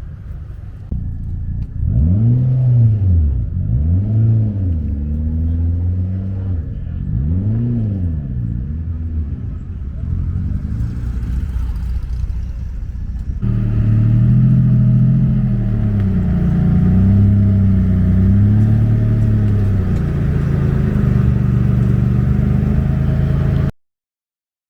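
Integra's four-cylinder engine revved repeatedly, its pitch rising and falling with each blip of the throttle. A second, louder run of revving starts about halfway through, and the sound cuts off abruptly near the end.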